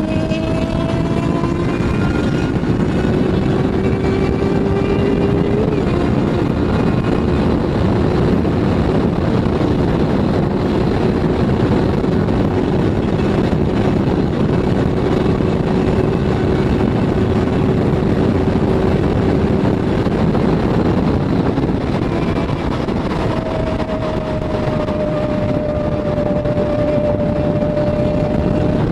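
Motorcycle engine running at a steady cruise under heavy wind rush. Its note rises slightly over the first few seconds and then holds steady, and a higher steady note sounds over the last few seconds.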